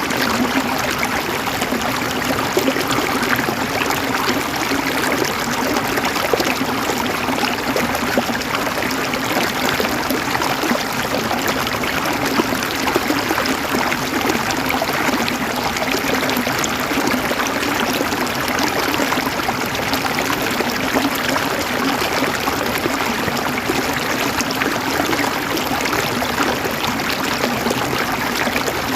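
Stream water flowing and trickling over rocks: a steady babbling that holds an even level without a break.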